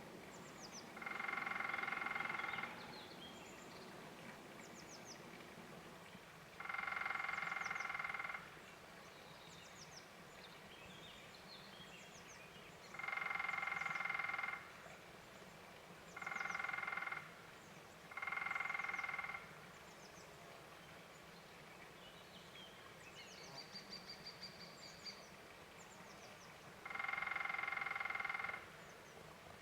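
Woodpecker drumming: six rapid rolls on resonant wood, each lasting one to two seconds and sounding at the same ringing pitch every time. They are spaced irregularly, several seconds apart. Between the rolls, small birds give short high chirps, and a brief high trill comes about two-thirds of the way through.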